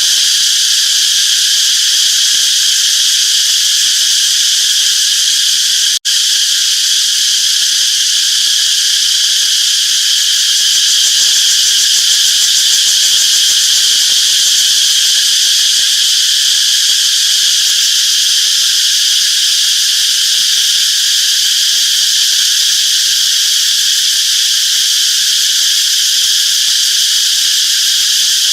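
A chorus of cicadas droning steadily and shrilly, with no let-up except a split-second dropout about six seconds in.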